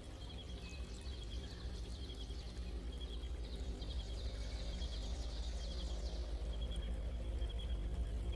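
Nature ambience growing slowly louder: a steady, evenly repeating high chirp, with busier bird-like twittering above it in the middle, over a low rumble.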